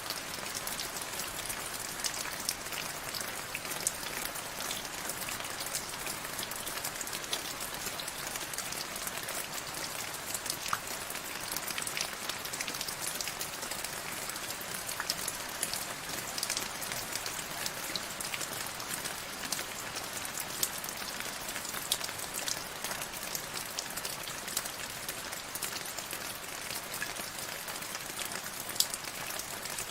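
Steady rain falling, a constant hiss with the sharp ticks of individual drops striking a surface.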